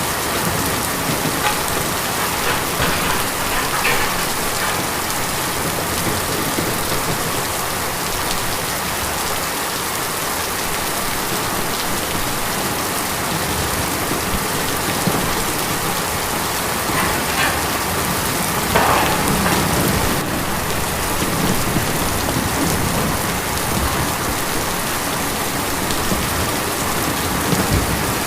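Steady heavy rain drumming on a tin roof, an even dense patter with a few louder drops striking now and then.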